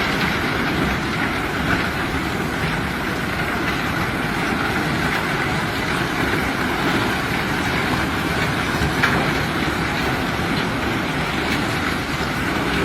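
Heavy machinery unloading rock: a steady mechanical rumble, with faint knocks about two seconds in and about nine seconds in.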